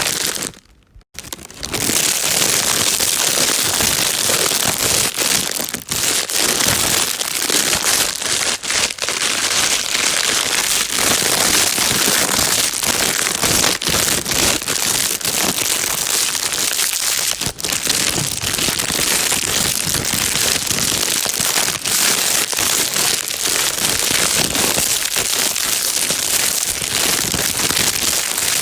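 Plastic bag being crinkled continuously, a dense crackling rustle, with a brief gap about a second in.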